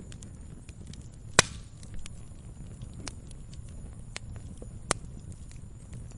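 Campfire crackling: scattered small snaps over a low steady rumble of burning wood, with a loud sharp pop about one and a half seconds in and another near five seconds.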